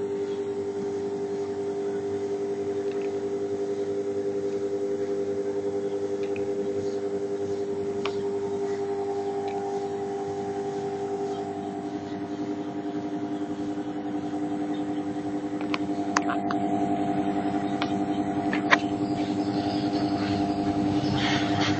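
A small electric motor running with a steady hum, its tone shifting slightly lower about two-thirds of the way through, with a few light clicks.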